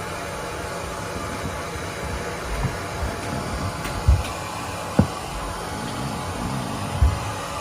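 Hair dryer blowing steadily, with a few short low thumps over it.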